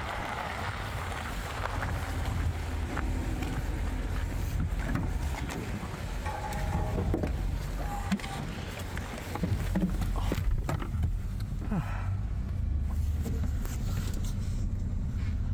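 Plow truck running, a steady low rumble of engine and road noise.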